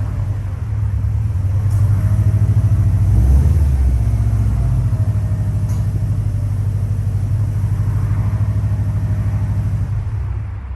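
Car engine running with a deep exhaust rumble, the revs swelling a little a couple of times, then cutting off suddenly at the end.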